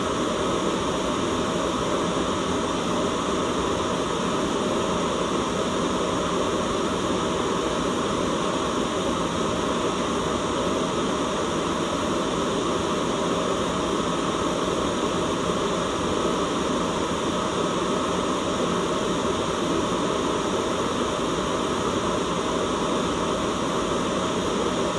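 Steady white noise: a constant, unchanging hiss with no breaks or events.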